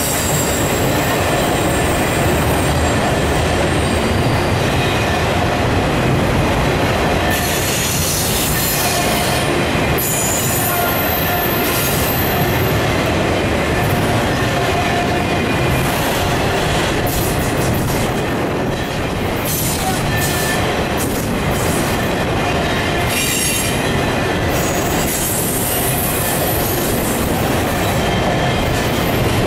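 Autorack freight cars rolling past: a steady, loud rumble of steel wheels on rail, with high-pitched wheel squeal that comes and goes and a few sharp clicks and clanks partway through.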